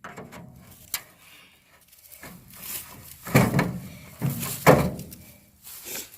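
A crowbar prying and knocking at the casing of a microwave being broken apart: a sharp click about a second in, then two louder bouts of knocking and rattling about three and a half and five seconds in.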